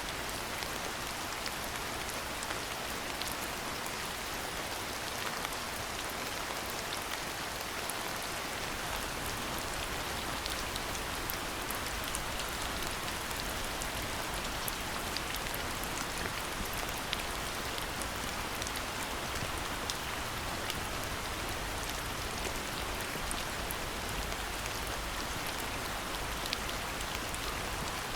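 Steady rain falling: an even hiss scattered with many small, sharp drop ticks, unchanging throughout.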